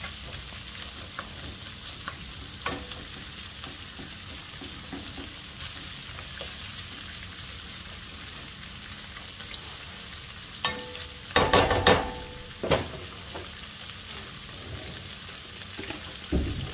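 Chopped onion sizzling in hot oil in a pan, a steady hiss. About two thirds of the way through comes a quick cluster of metallic clanks and scrapes, with another near the end, as a utensil knocks against the pan.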